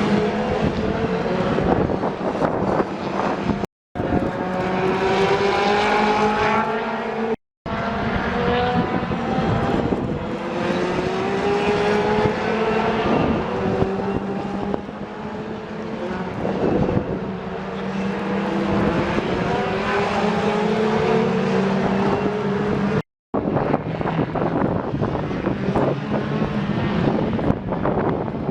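Racing car engines accelerating hard, each rising in pitch and dropping back at repeated gear upshifts, several cars in turn. The sound drops out briefly three times at edit cuts.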